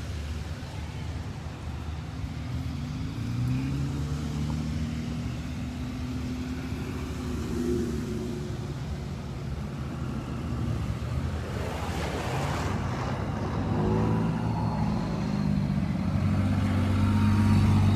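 Cars passing slowly in a long line of traffic, engines running, with engine pitch rising as vehicles pull away; a brief hiss about twelve seconds in.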